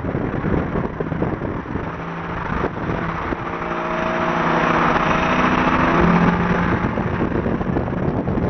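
Car engine running under load while driving, its note swelling louder over a few seconds in the middle and then easing off, over steady road and wind noise.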